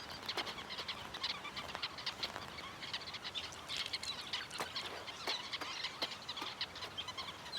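A flock of sociable weavers chattering: many short, overlapping chirps that run on without a break.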